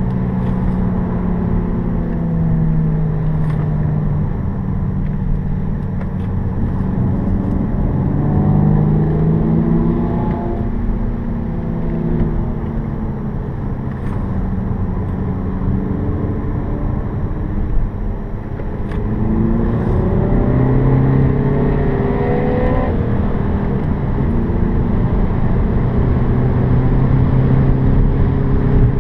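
Seat Leon FR's engine heard from inside the cabin over steady tyre and road noise. The engine note rises repeatedly as the car accelerates and falls as it slows, with a sharp cut in the rising note about 23 seconds in.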